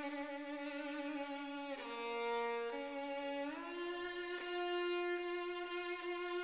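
Background music: a violin playing a slow melody of long held notes with slight vibrato, moving down and then up to a higher held note a little past the middle.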